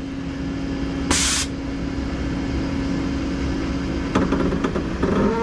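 Vehicle engine running steadily at low speed during slow manoeuvring, with a short burst of hiss about a second in.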